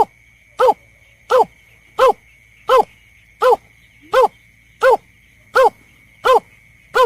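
Bird-lure recording of a berkik (snipe) calling: short, harsh notes repeated evenly, about ten in the space, one every 0.7 seconds, each rising and then dropping in pitch. A faint steady high tone sounds underneath.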